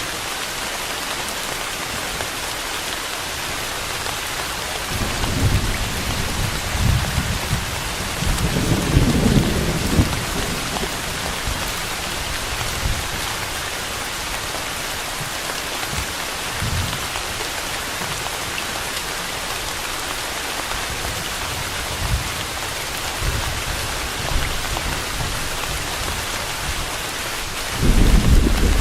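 Steady rain hissing, with low rolls of thunder: a rumbling roll from about five seconds in that peaks near the ten-second mark, a few fainter ones after it, and a louder roll starting just before the end.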